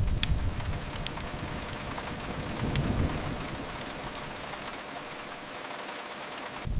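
Steady rain hiss with a low rumble that eases after the first second and swells briefly about three seconds in. A few sharp fireplace crackles sound in the first second.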